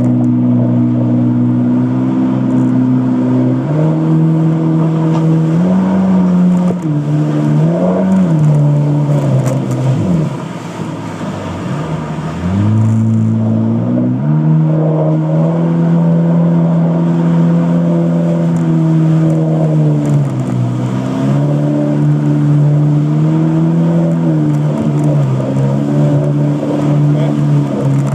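Jet ski engine running under way, its pitch rising and falling as the throttle changes. About ten seconds in it drops to a low note for a couple of seconds, then revs back up and holds steady.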